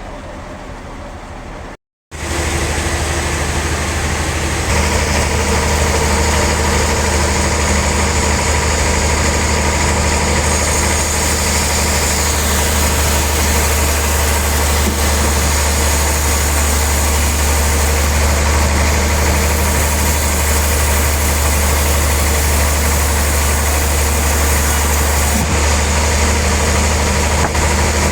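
Sawmill machinery running steadily with a strong low hum. Two seconds in the sound briefly cuts out, then comes back louder.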